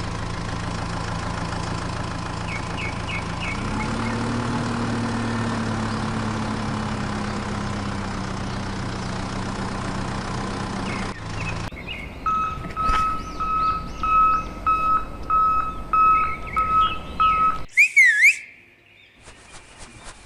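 A vehicle engine running steadily, its pitch rising a little about four seconds in, then cutting off after about eleven seconds. Then a regular electronic beeping, about eight beeps, like reversing beeps, followed by a short up-and-down whistle.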